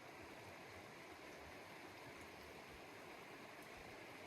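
Steady rush of a stream's running water, faint and even.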